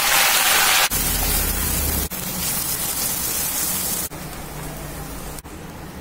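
Hot oil sizzling and spitting in a clay cooking pot, loudest in the first second as curry leaves fry. After that comes a quieter, steadier frying and bubbling in several short spliced clips, as the chicken fries and then simmers in its gravy.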